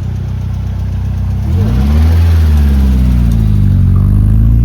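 A car engine running steadily low, then rising sharply in pitch about a second and a half in and staying loud. The pitch eases down and climbs again near the end, as the engine revs or the car accelerates.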